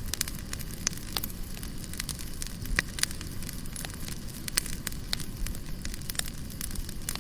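Wood fire burning in a Lotus QM40 stove-fireplace: irregular sharp crackles and pops over a low steady rumble.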